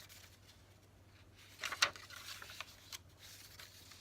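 Paper pages of a handmade junk journal rustling as they are handled and turned, with a sharper crackle of paper a little under two seconds in and a few lighter ticks after it.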